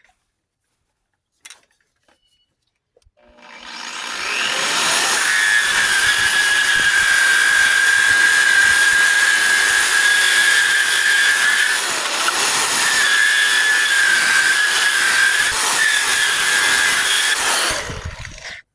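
Handheld power sanding tool stripping paint off steel truck bodywork. It spins up a few seconds in and runs with a steady high whine, dips briefly about halfway through, and winds down near the end.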